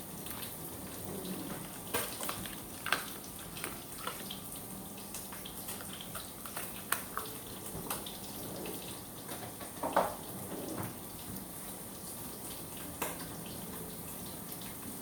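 Vegetables sautéing in hot oil in a pan: a steady sizzle, with a few sharp knocks of a utensil against the pan every few seconds.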